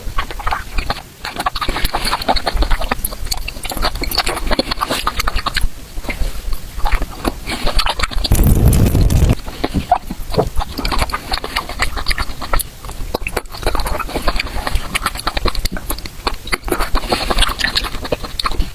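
Close-miked chewing, slurping and smacking while raw octopus is eaten, a dense run of wet clicks and smacks. About eight seconds in there is a loud, low, muffled thump that lasts about a second.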